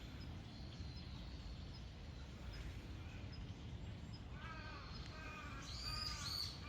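Wild birds calling in trees: a faint, short, high chirp repeats about once a second, then from about four seconds in a bird gives a quick series of louder calls, each falling in pitch. A steady low outdoor rumble sits underneath.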